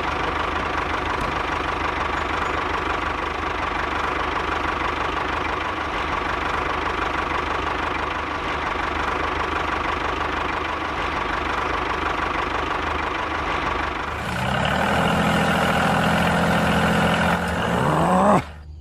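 A small motor running steadily. About fourteen seconds in, its sound changes and grows a little louder, then its pitch rises just before it cuts off suddenly.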